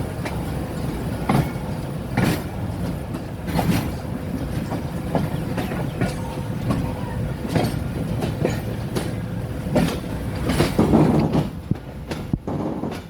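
Train passing over a bridge: a steady low rumble of the cars with irregular clacks of wheels over rail joints, loudest near the end, then falling away just before the close.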